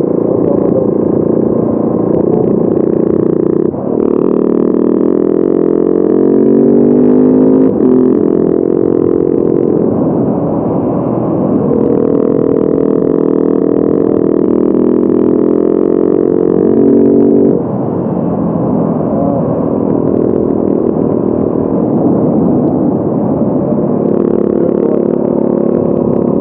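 Motorcycle engine running under way, rising in pitch as it accelerates, with gear changes about 4 and 8 seconds in. It holds a steady higher pitch for several seconds, then drops when the throttle closes about 17 seconds in.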